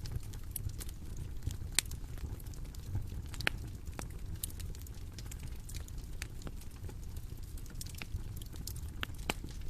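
Bonfire crackling: a steady low rumble of burning wood with irregular sharp pops and snaps, one of the loudest about two seconds in.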